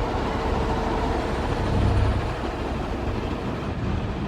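Road and engine noise inside a car driving on a highway close beside a big truck, with a low rumble that swells about two seconds in.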